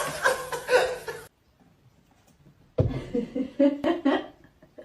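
People laughing and chuckling in two stretches. The first breaks off about a second in, and after a short silence the second starts near the three-second mark.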